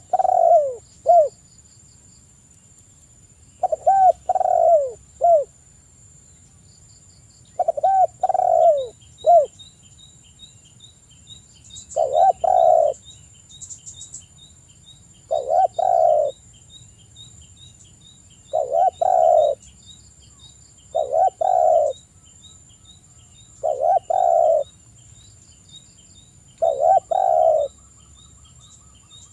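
Spotted dove cooing: a short phrase of several coos about every three to four seconds, nine phrases in all. Faint rapid high chirps and a thin steady high whine run under it.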